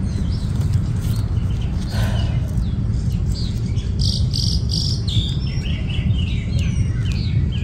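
Songbirds chirping, with a rapid run of high notes about four seconds in and a string of short falling chirps after it, over a steady low rumble.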